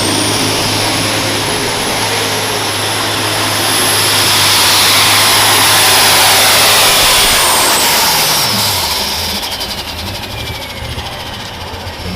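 Unlimited super stock pulling tractor's engine at full throttle under load, with a high turbocharger whine held steady. About eight seconds in the whine falls away and the engine comes off power, with a rapid crackle near the end.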